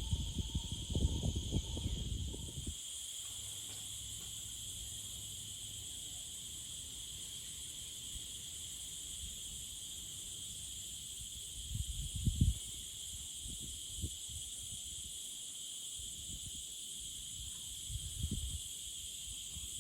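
Steady high-pitched insect chorus, a continuous buzz holding two pitches. Dull low thumps come in the first few seconds and again briefly about twelve and eighteen seconds in.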